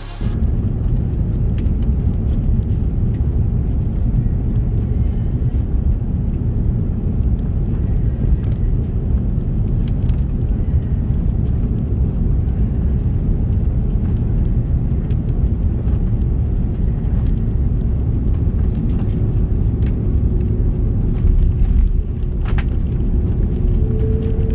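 Airbus A330-300 cabin noise during the arrival into Heathrow: a loud, steady rumble of engines and airflow with light rattles of cabin fittings, and a faint whine that comes in near the end.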